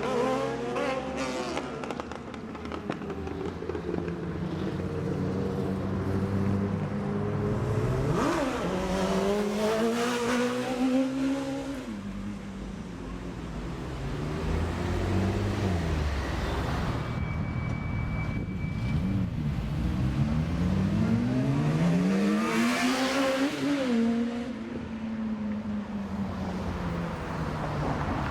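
Sport motorcycle engines revving hard and accelerating past, their pitch climbing and then dropping back several times as they shift up through the gears. The loudest passes come about a third of the way in and again near the end.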